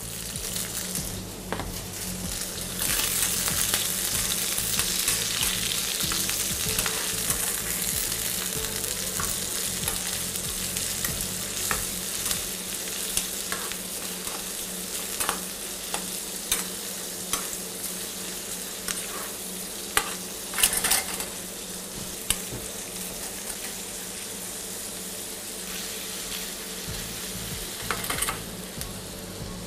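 Pork belly, prawns and garlic sizzling in oil in a steel frying pan over a gas flame, the sizzle louder for the first several seconds. Metal tongs stir the food, clinking and scraping against the pan now and then.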